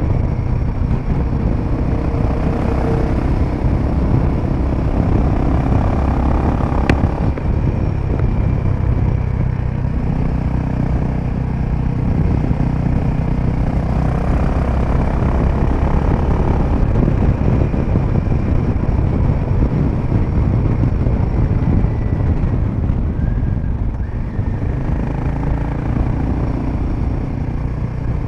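Royal Enfield Himalayan 450's single-cylinder engine running steadily at highway speed through an aftermarket Power Rage exhaust, with wind noise on the microphone.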